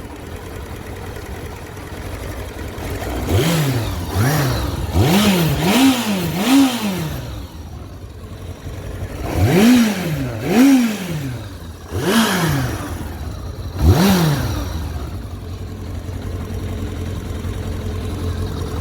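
2003 Kawasaki motorcycle's four-cylinder engine idling and blipped on the throttle about nine times, in a quick run of five and then four more, each rev rising sharply and falling back to idle. It idles steadily for the last few seconds.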